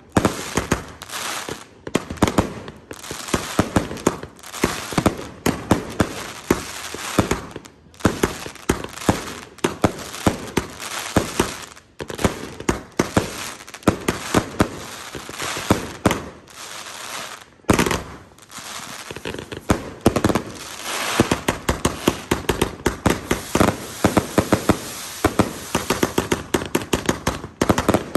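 A Voodoo multi-shot firework firing in quick succession: many sharp shots and bursts a second, with crackling between them and a few brief lulls.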